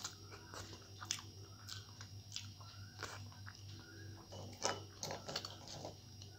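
Close-miked mouth sounds of chewing a hand-eaten mouthful of rice mixed with potato: soft wet smacks and clicks every second or so, over a low steady hum.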